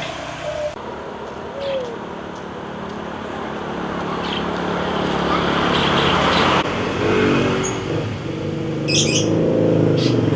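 Passing road traffic: a rush of noise that builds for a few seconds and stops abruptly, then a motor vehicle's engine hum from about seven seconds in.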